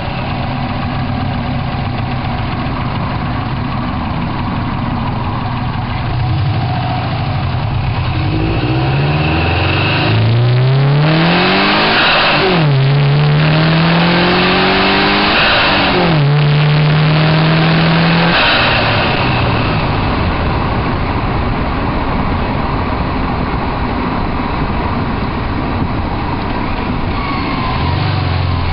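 2005 Subaru WRX turbocharged flat-four engine, heard from inside the engine bay, idling and then pulling up in revs in three rising climbs with two sharp drops between them, with a loud rushing intake and turbo noise at the higher revs. It eases off and settles back to a steady idle.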